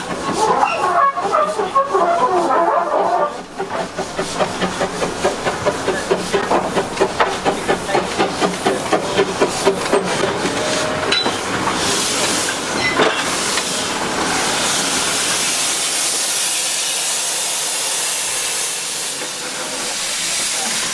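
Narrow-gauge steam locomotive working: a run of rhythmic exhaust chuffs, a few a second, then from about twelve seconds in a steady hiss of escaping steam.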